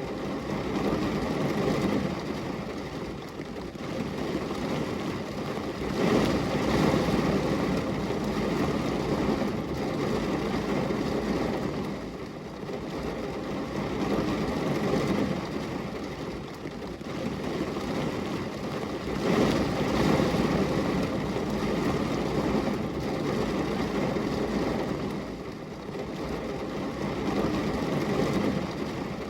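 Steady rain on a glass window: a continuous rushing noise that swells and eases every several seconds.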